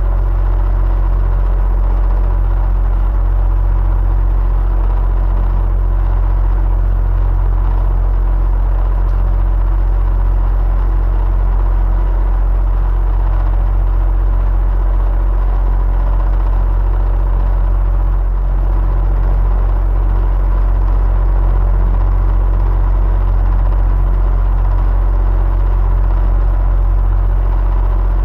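Electric fan running steadily: a deep low hum and whir with a few faint steady tones over an even rush of air, unchanging throughout.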